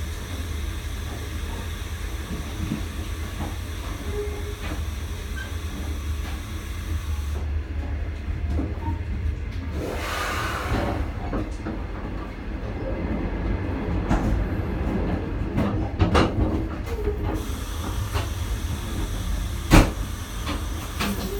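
Passenger train rolling out of a station, heard from inside the carriage: a steady low rumble with scattered knocks from the wheels and running gear. There is a brief hiss about halfway through and a single sharp clunk near the end.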